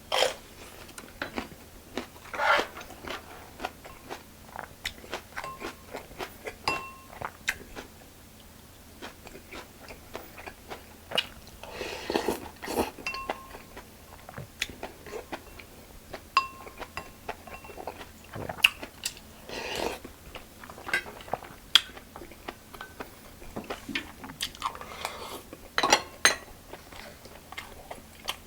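Close-up eating sounds: chewing and crisp crunching bites of Korean home-cooked food such as lettuce wraps and fresh vegetables, in irregular strokes, with louder crunches around twelve, twenty and twenty-six seconds in.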